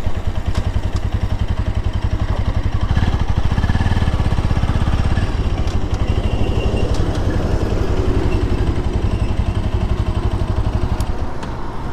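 Motorcycle engine idling at a standstill, with a fast, even pulsing; the low end weakens near the end.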